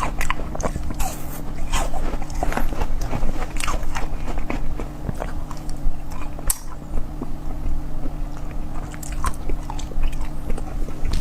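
Close-miked ASMR eating: a person biting and chewing food, with irregular crunchy, crackling bites.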